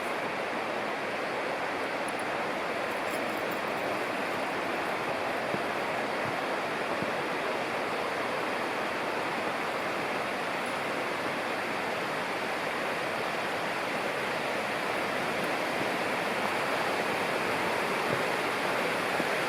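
Mountain river rushing: a steady, unbroken sound of running water.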